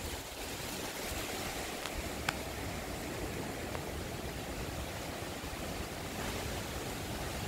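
Strong wind blowing through garden fruit trees, a steady rushing noise, with a faint tick a little over two seconds in.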